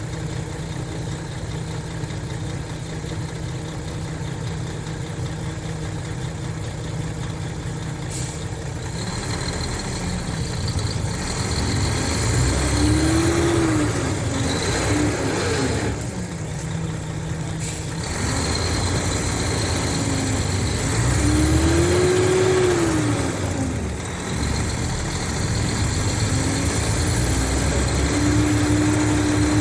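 Mercedes-Benz O500RSD coach's diesel engine idling steadily, then revved up and down twice, and held at a steady higher speed near the end.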